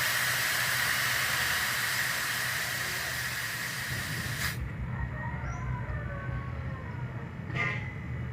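Flushing gas at 10 PSI hissing out of a fridge's opened refrigerant line, blowing the old oil out. The hiss cuts off suddenly about four and a half seconds in as the line is closed. A low hum remains, with one sharp knock near the end.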